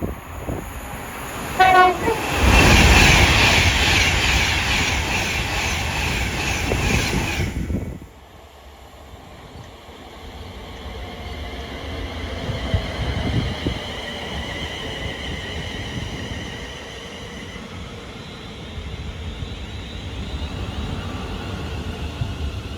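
A train sounds a brief horn blast and then passes at speed, with loud rushing and wheel rattle for about six seconds that stops abruptly. After that comes quieter train noise with a steady high whine.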